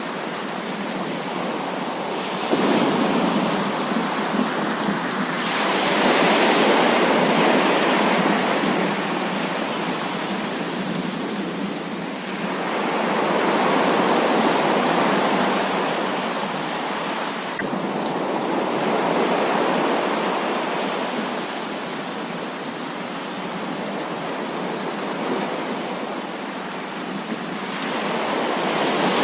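Heavy rain pouring in a continuous dense hiss that swells louder and eases off every several seconds.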